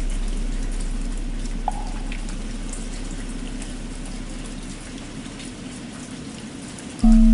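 Steady rain with a deep bell ringing out and slowly fading, then struck again near the end, its new tone loud and sustained. A single light knock sounds about two seconds in.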